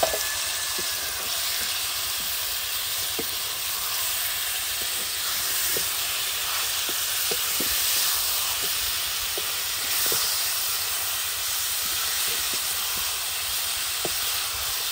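Chicken pieces frying in hot oil with chopped garlic in a karahi: a steady sizzle with scattered small pops, and a sharp spike right at the start.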